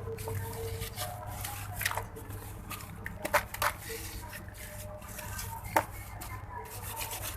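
Water-soaked red sand-cement chunks crumbling and squishing in the hands, with a few sharp cracks as pieces break apart.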